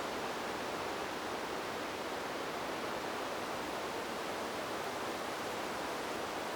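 Wind blowing through trees as a steady, even rushing noise, with no gusts or changes in level.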